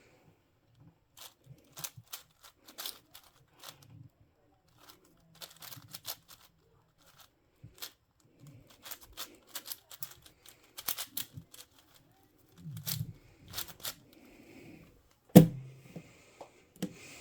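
Plastic puzzle cube being turned by hand: irregular runs of quick clicks and clacks as its layers snap round, with one sharper, louder knock about fifteen seconds in.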